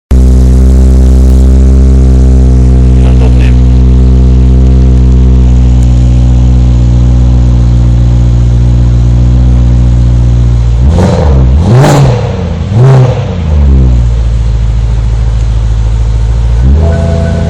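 BMW M3 E92's V8 idling through an Akrapovic exhaust, then blipped three times in quick succession about eleven seconds in, dropping back to idle, with one more short blip near the end.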